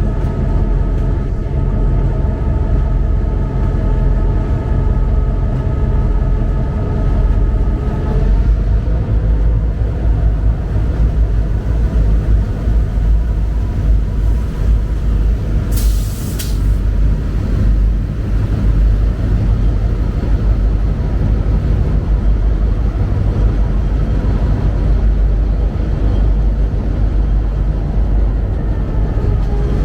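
GP38-2 diesel-electric locomotive running under way, its 16-cylinder EMD 645 engine giving a steady low rumble with rail and wheel noise; the engine's tones shift about 8 s in, and a short hiss of air sounds about 16 s in.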